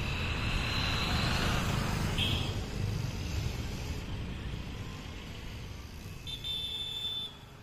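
Passenger train rumbling along the track as it moves away, its noise slowly fading. Short high-pitched beeps come about two seconds in and again, longer, near the end.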